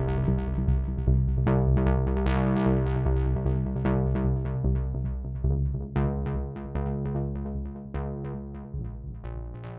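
Behringer Odyssey analogue synthesizer playing a fast pattern of short, bright notes, about four a second, over sustained low notes. It fades out gradually.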